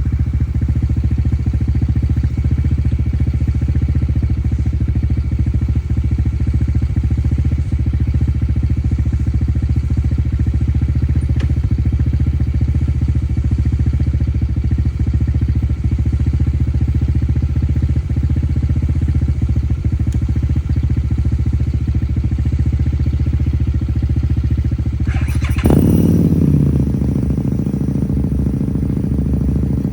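Motorcycle engine running steadily at a constant pace. About 25 seconds in the sound changes abruptly, and the engine note drops.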